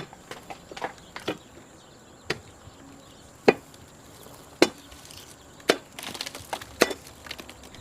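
A hand tool striking hard material in single sharp blows, about one a second, as in stonework or chopping.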